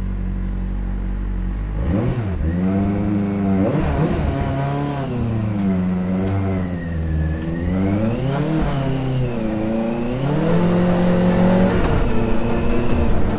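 Benelli TNT 600i's 600 cc four-cylinder engine idling, then blipped repeatedly from about two seconds in, the pitch rising and falling with each rev, with a longer held rev near the end.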